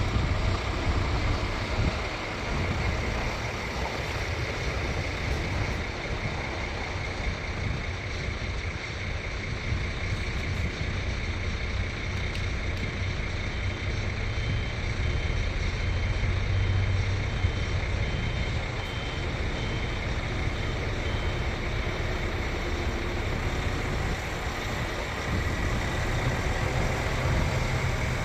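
Scania R450 tipper's 13-litre six-cylinder diesel running steadily, with a high-pitched reversing alarm beeping about one and a half times a second for some eight seconds midway.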